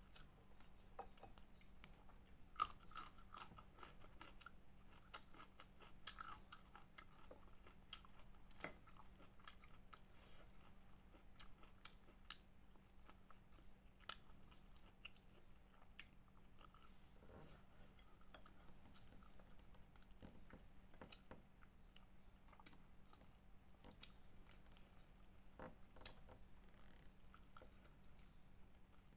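Faint close-up chewing and crunching of fried fish, with many small scattered clicks and mouth sounds.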